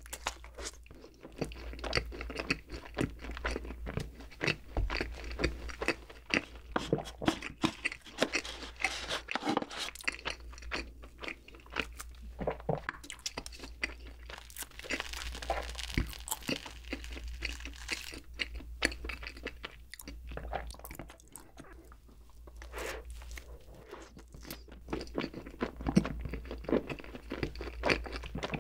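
Close-miked chewing and biting of soft cream-filled bread and whipped cream: irregular wet smacks, clicks and soft crunches of the crust, with no pause.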